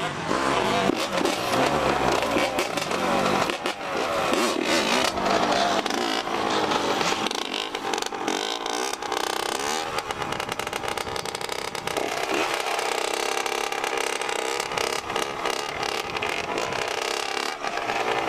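Dirt bike engine being revved, its pitch rising and falling several times, as the rider blips the throttle for a clutch wheelie attempt, with gusty wind noise on the microphone.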